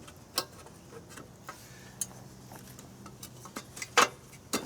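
Scattered metallic clicks and taps of hand work on a lawn mower's recoil starter, with a sharp click about half a second in and a cluster of louder clacks near the end.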